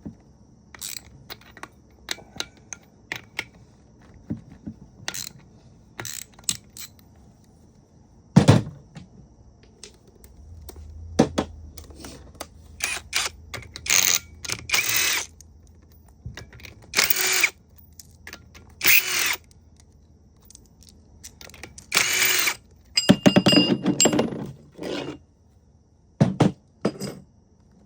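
Hand tools loosening the bolts of a rear main seal installer tool on a Subaru EJ engine block: scattered metal clicks and clanks with several short rasping bursts.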